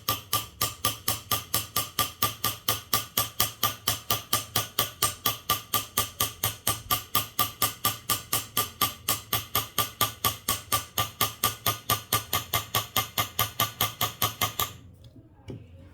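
Mallet striking a carving chisel into zelkova wood in traditional seogak carving, a steady run of sharp knocks at about three a second that stops shortly before the end.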